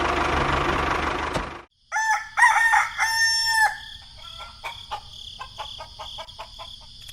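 A loud steady rushing noise cuts off abruptly, then a rooster crows once: a few short notes and a long held final note. Scattered clicks and a steady high tone follow.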